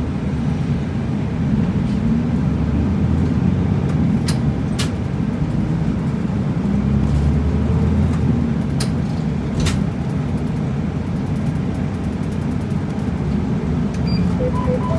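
Route bus running on the road, its engine and road rumble heard from inside the cabin, with four sharp clicks or rattles in the middle. A few short tones sound right at the end.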